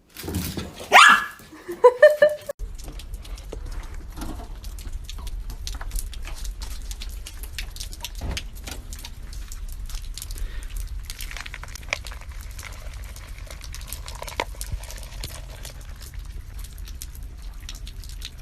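A dog barking and yipping excitedly in a loud burst over the first two or three seconds, its pitch sliding up and down. Then it cuts to a steady low rumble with scattered clicks.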